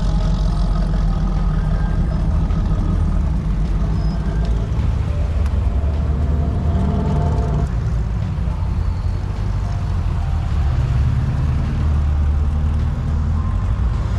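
Car engine running at low speed with a low, steady exhaust rumble; the note shifts about eight seconds in and again near eleven seconds.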